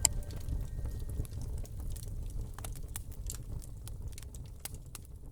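Wood fire crackling in a fireplace firebox: irregular sharp snaps over a low rumble, slowly fading out.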